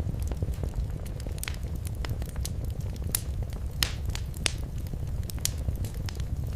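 Fireplace fire crackling: a steady low rumble of flames with frequent sharp pops and snaps, a few louder ones around the middle.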